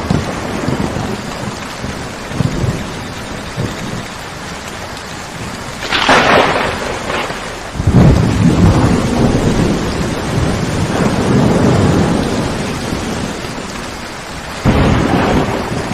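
Steady heavy rain with thunder. A sharp clap comes about six seconds in, followed by several seconds of low rolling thunder, and another clap starts near the end.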